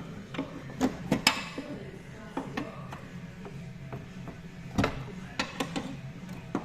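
Scattered metallic clanks and knocks as an engine hanging from a workshop crane is worked into a car's engine bay, with the loudest clanks about a second in and again near five seconds, one ringing briefly.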